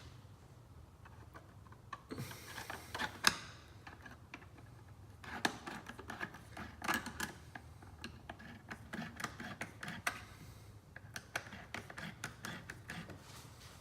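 Hand tools being handled and rummaged through: an uneven run of small metallic clicks and clatters with some rustling, starting about two seconds in.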